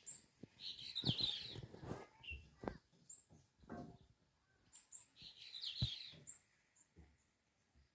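Small birds chirping in two bouts of quick twittering, with a few short high notes and a few soft knocks between them.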